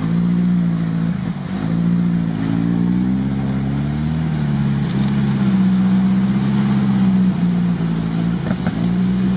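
Off-road 4x4 engine running under load in low gear while towing another vehicle on a strap through mud. Its pitch rises and falls gently with the throttle and dips briefly a few times.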